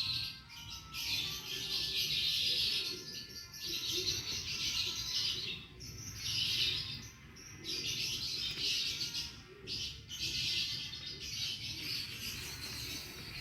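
Birds chirping in a run of high, rapid bursts, each lasting about a second, with short pauses between them.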